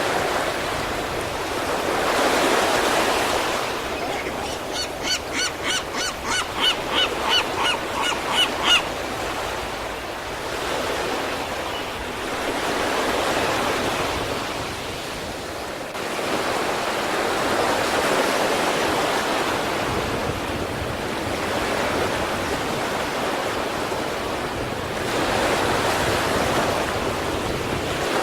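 Sea waves breaking on the East Sea shore, a steady wash that swells and falls every several seconds. A few seconds in, a bird gives a quick run of about a dozen short honking calls that grow louder and stop abruptly.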